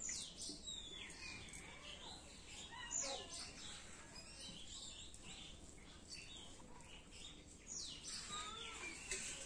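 Birds chirping and calling: many short, quick calls, some sweeping down in pitch, a few of them louder.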